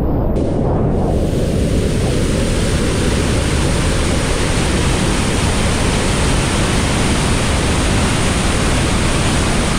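Niagara Falls pouring down close by: a loud, steady rush of falling water.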